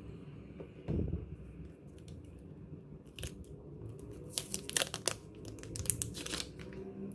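Packaging being crinkled and torn by hand, in quick scratchy bursts from about three seconds in, after a single thump about a second in. A steady low rumble runs underneath.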